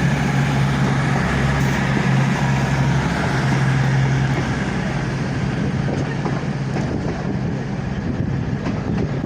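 Diesel engines of a Class 221 Voyager unit running with a steady low hum. The hum fades after about four and a half seconds, leaving a steady rumble.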